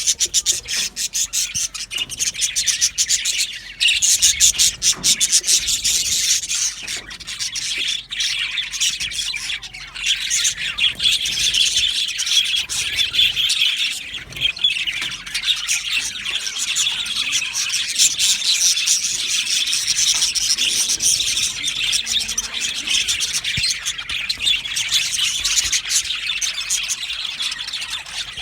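A flock of budgerigars chattering and chirping together, a dense unbroken warble of many overlapping calls.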